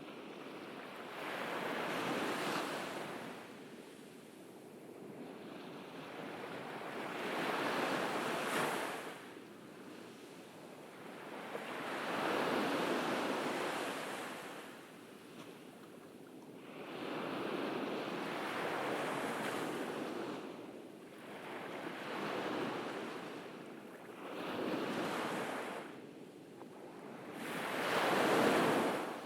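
Ocean waves breaking on a beach, each surge of surf swelling and washing away every three to five seconds, about seven in all, the last near the end the loudest.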